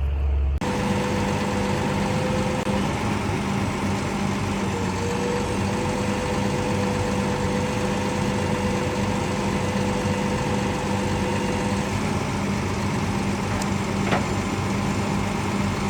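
Tow vehicle's engine idling steadily with a low, even hum while the rig is maneuvered out of a tight spot.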